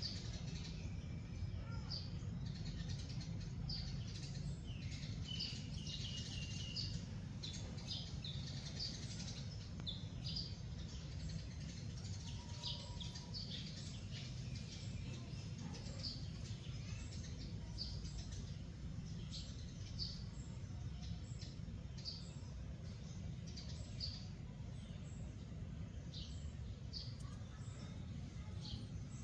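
Small birds chirping: frequent short, high chirps that go on throughout, over a low, steady background rumble.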